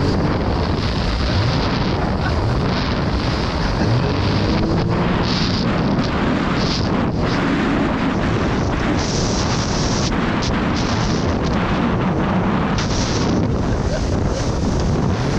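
Jet ski running at speed, its engine changing pitch in the first few seconds, under heavy wind buffeting on the microphone and the hiss of water spray.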